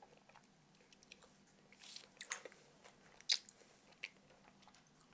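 Faint chewing of a sticky, hard-to-chew Russell Stover caramel chocolate egg: wet mouth clicks and smacks, with a louder sharp click a little over three seconds in.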